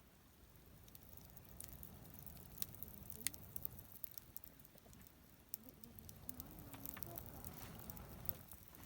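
Square timber burning in a fire-pit stand: faint, scattered sharp crackles and pops over a low, steady rumble.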